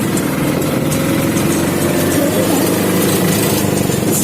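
A vehicle engine running steadily with an even hum.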